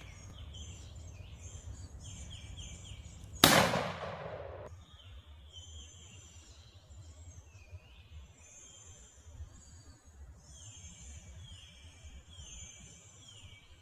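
A single shotgun blast at a turkey about three and a half seconds in, ringing off over about a second. Songbirds chirp in short repeated phrases throughout.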